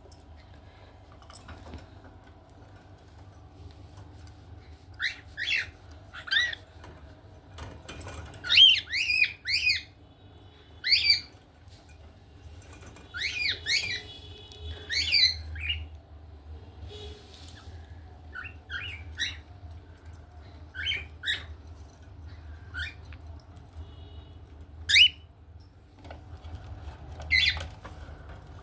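Cockatiels calling: short, high chirps and squawks at irregular intervals, with a busier run of calls about a third of the way in and a single loud call near the end.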